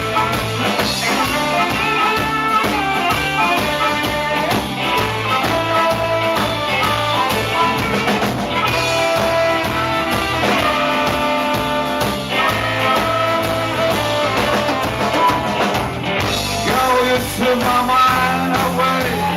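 Rock band music with electric guitar and drum kit, and some singing; the music breaks off briefly and changes about sixteen seconds in.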